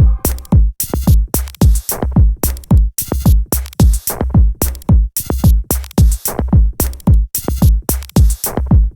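Electronic dance track in a drums-only break: a drum machine plays a steady beat of deep kick drums that fall in pitch, with sharp hi-hat and snare hits on top. The held synth chords drop out here.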